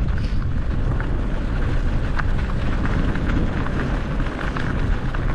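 Wind buffeting the microphone on a moving bicycle: a steady low rumble, with scattered light clicks and rattles from the bike and the path.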